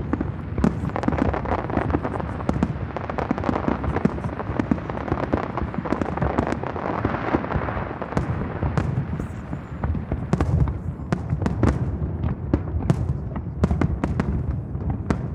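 Aerial fireworks bursting in a dense, continuous barrage of bangs. A crackling haze fills the first half, and deeper, heavier bangs come from about ten seconds in.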